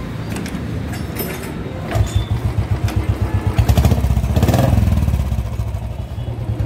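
A Royal Enfield Bullet 350 Standard's single-cylinder four-stroke engine starts about two seconds in. It settles into a steady idle with an even, pulsing beat, with a brief swell in level in the middle.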